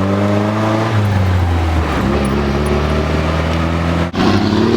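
Triumph Spitfire 1500's four-cylinder engine pulling under acceleration, its pitch climbing, dropping about a second in and climbing again, with a short break in the sound about four seconds in.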